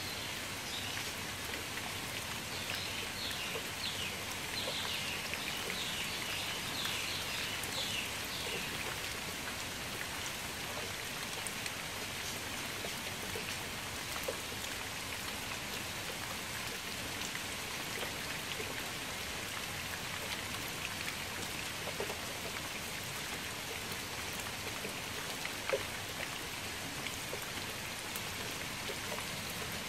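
Steady rain falling onto a shallow puddle, a continuous hiss of drops hitting the water surface with a few louder single drops standing out.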